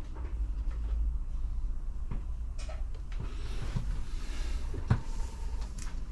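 Scania bus diesel engine running with a steady low rumble, while short clicks and knocks rattle in the cabin, the strongest a little before the end. A brief hiss comes about three seconds in.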